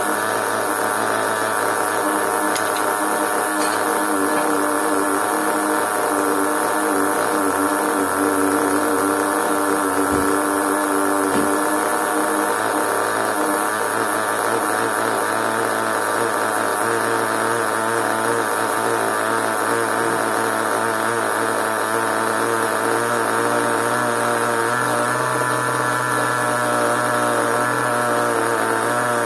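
Small nitro (glow-fuel) engine of a radio-controlled monster truck running steadily, with an even buzzing tone that holds throughout.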